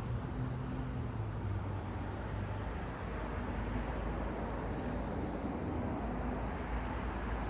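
City road traffic: a steady wash of vehicle and tyre noise, with a low engine hum that drops away about three seconds in, leaving a deeper rumble.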